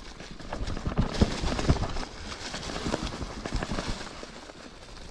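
Mountain bike rolling over a bumpy dirt trail: irregular knocks and rattles of the frame and tyres jolting over roots and ruts, heaviest in the first two seconds and then easing off.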